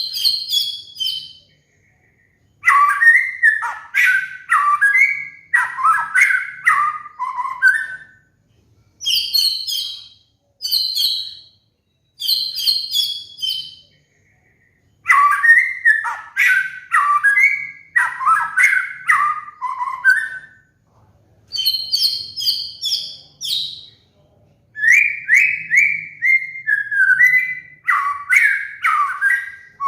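White-rumped shama singing in separate phrases with short gaps between them: short sets of high, clear whistled notes alternate with longer runs of lower, rapidly falling notes.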